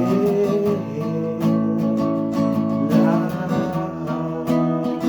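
Music: acoustic guitar strumming in a song's instrumental break, with a brief gliding note about three seconds in.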